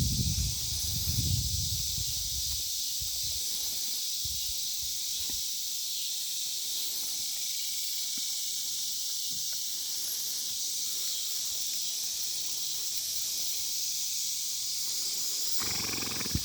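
Steady, high-pitched chorus of insects droning in the background, with some low rumbling and handling noise in the first couple of seconds and a brief short sound near the end.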